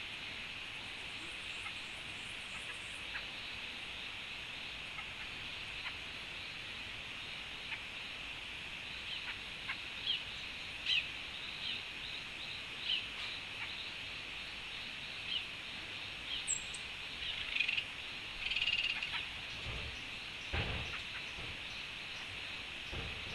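Short, high bird calls and chips, a dozen or so, scattered through the middle over a steady high background hiss of the forest. A couple of low thumps near the end.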